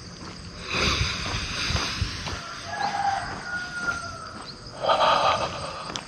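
Outdoor rural ambience with a distant bird call: a thin, slightly falling note in the middle. Two louder noisy swells come about a second in and near the end.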